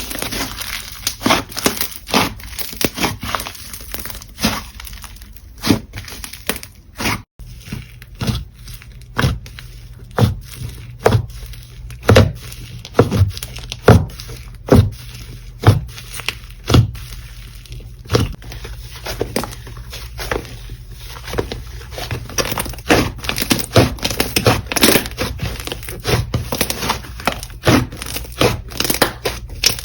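Slime being pressed, folded and stretched by hand, giving a steady crackle with sharp irregular pops, one or two a second. There is a brief break in the sound about seven seconds in.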